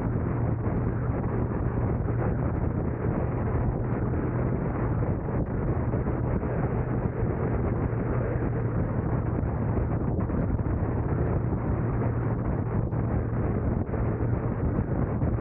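Steady road noise of a car driving: a constant low drone with wind rushing over the microphone, unchanging throughout.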